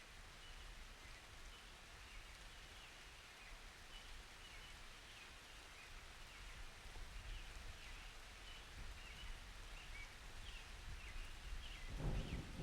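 Light rain hissing faintly, with small high chirps or squeaks scattered throughout. A low thunder rumble starts to build near the end.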